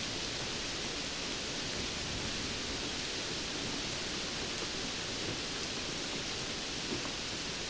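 Steady rainfall, an even hiss with no let-up and a few faint drop ticks.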